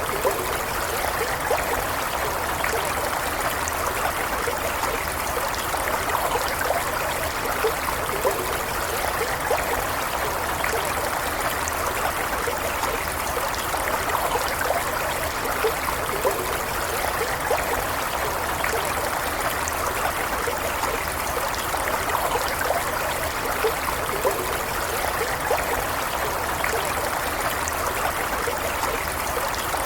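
Small stream running steadily over stones, a continuous burble with small flickering splashes and gurgles.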